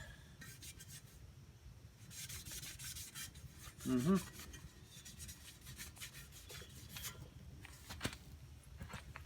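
Faint rubbing and scraping of freshly sandblasted metal parts being handled, with a few light clicks.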